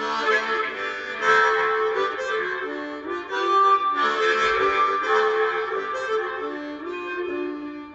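Harmonica playing a blues melody, moving from note to note every second or so.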